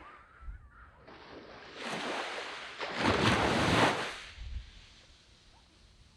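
Sea waves breaking and washing up a sandy beach: one wave swells about a second in, is loudest around three seconds, then fades away.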